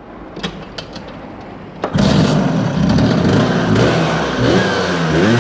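Two-stroke Vespa 50 Special engine with a Pinasco Zuera SS 135cc cylinder kit: a few clicks, then the engine fires about two seconds in and runs loudly. Near the end it is blipped, the pitch rising and falling with each rev.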